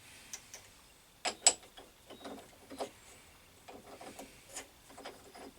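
Irregular clicks, knocks and light scraping of metal tools being handled at a lathe, with a sharp pair of clicks about one and a half seconds in.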